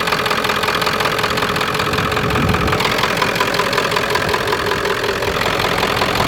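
1995 Ford F350's 7.3 L Powerstroke V8 turbodiesel idling steadily shortly after starting, which the owner judges sounds good.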